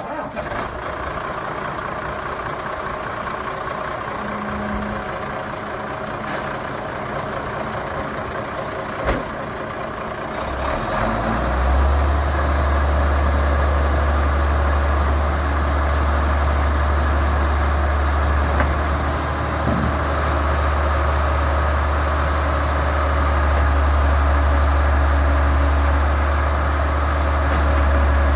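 The 1995 Ford L8000's 8.3-litre Cummins diesel engine running steadily. About eleven seconds in, a much deeper, louder drone comes in and holds, with a single sharp click shortly before it.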